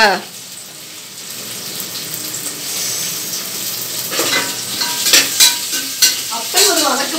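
Food sizzling in hot oil and ghee in an aluminium pressure-cooker pan. From about four seconds in, a ladle stirs it and clicks and taps against the pot several times.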